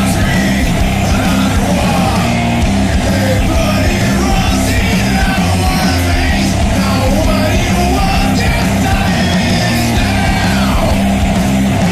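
Loud heavy rock band playing, with yelled vocals over the band.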